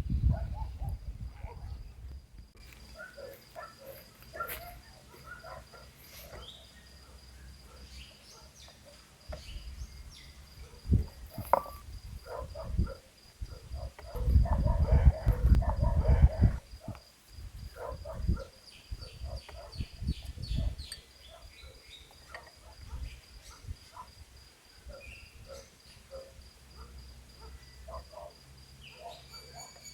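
Insects trilling steadily on one high note, with scattered clicks and knocks and two stretches of low rumbling, the louder one about halfway through.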